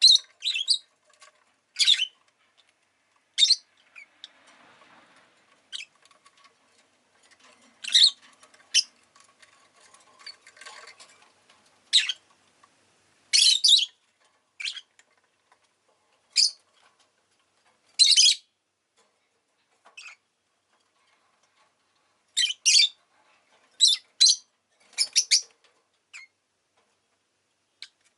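Rosy-faced lovebird giving short, sharp, high-pitched chirps, one or two at a time, every second or two with irregular gaps.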